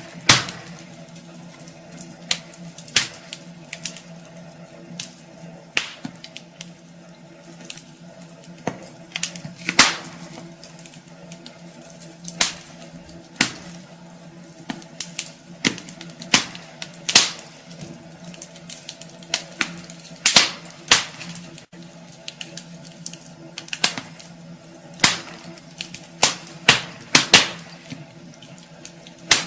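Wood fire crackling in a fireplace: irregular sharp pops and snaps, a few every second and some much louder than the rest, over a steady hiss and a faint low hum.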